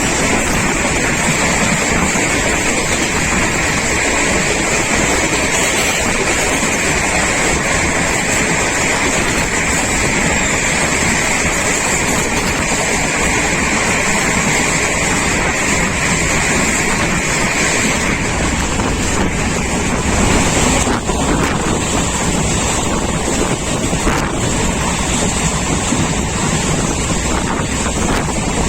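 Express passenger train running at speed, heard from aboard: a steady rush of wind with wheels running on the rails. A high, steady whine runs under it until about two-thirds of the way through, then drops away.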